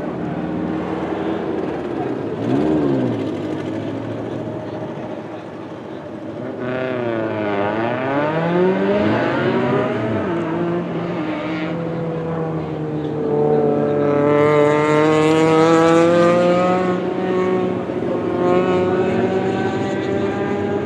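Autocross car's engine revving up and down through a cone course. The pitch falls and climbs several times, and it is loudest and highest about two-thirds of the way through.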